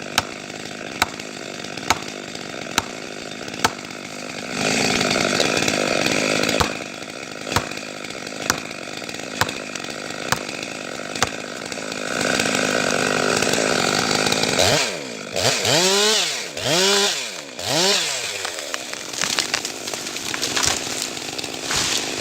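Chainsaw running and cutting wood, revved up and down several times about two-thirds of the way through. Sharp knocks come about once a second through the first half.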